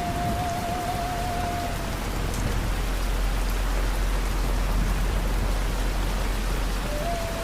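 Steady rain falling on a surface, an even hiss throughout. A single held high tone wavers in pitch for the first two seconds, and a deep low rumble sits under the rain from about two seconds in until near the end.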